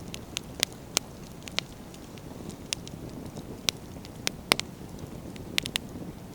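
Wood campfire crackling: irregular sharp pops and snaps from burning firewood over a low steady rumble of flame. The loudest pop comes about four and a half seconds in, and three pops follow in quick succession near the end.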